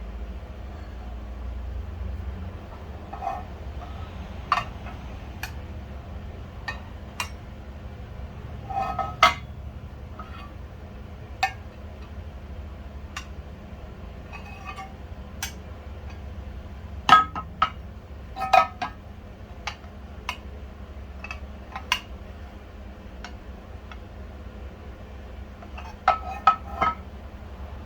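Small metal parts and tools clinking and tapping at irregular intervals, with several clusters of quick clinks, over a steady low hum.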